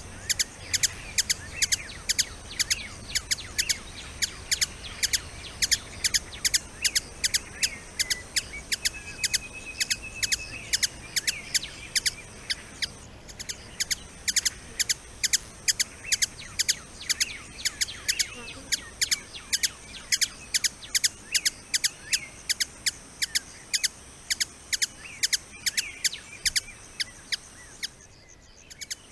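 Birds chirping in quick, sharp notes, about three or four a second, over a steady high-pitched insect buzz, with a short warbled bird phrase about a third of the way in.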